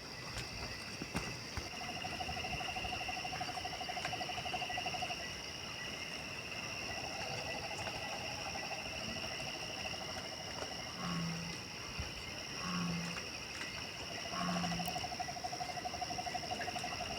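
Nocturnal chorus: steady high insect drones with long repeated trilling calls, and three short low hoot-like calls about a second and a half apart in the second half.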